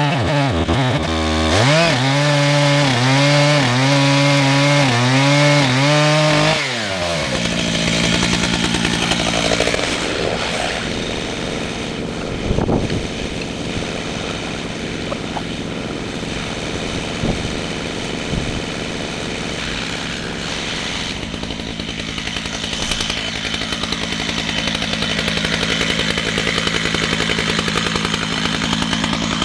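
Chainsaw milling a red oak log: the engine runs at high speed with its pitch wavering, then drops suddenly about six and a half seconds in to a lower, steadier run that continues to the end.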